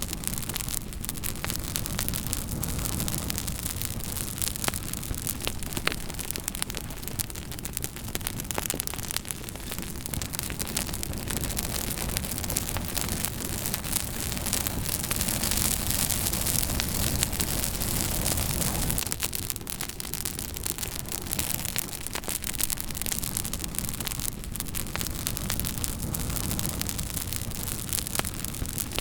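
Campfire crackling: many sharp pops and snaps over a steady rushing hiss, with a low rumble that eases about two-thirds of the way through.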